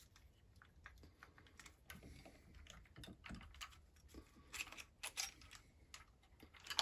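Faint, scattered clicks and light taps of small chainsaw parts being handled as the Walbro carburettor is worked free of a Husqvarna 346XP, with a few sharper clicks a little after the middle.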